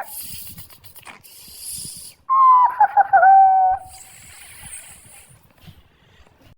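An animal call with a slightly falling pitch, lasting about a second and a half, about two seconds in, amid bursts of hissing noise.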